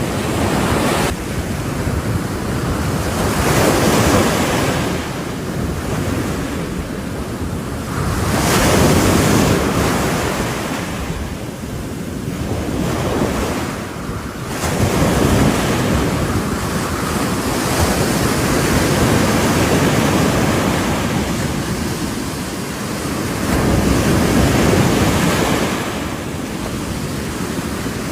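Sea waves breaking on a shore, the surf swelling and falling back about every five to six seconds.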